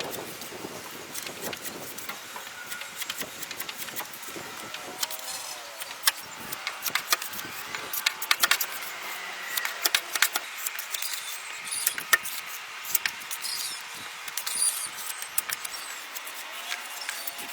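Irregular sharp clicks and clinks of small hard objects being handled, coming thicker from about six seconds in.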